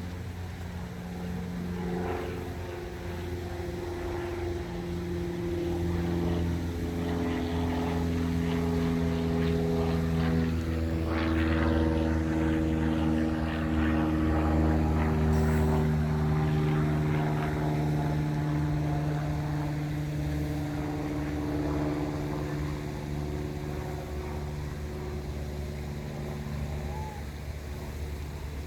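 Several remote-control model boats' motors running at once, each a steady drone at its own pitch with slow pitch shifts. They grow louder toward the middle as the boats pass close, then fade a little.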